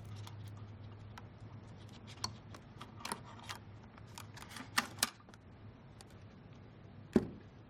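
Scattered light clicks and taps of small plastic parts being handled: battery connectors being unplugged from a ventilator's driver board and the board lifted out. A faint low hum sits underneath.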